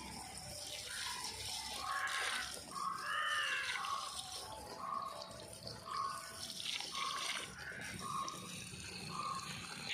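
Water running and splashing while plants are watered, with a short tone repeating about every three-quarters of a second through the second half.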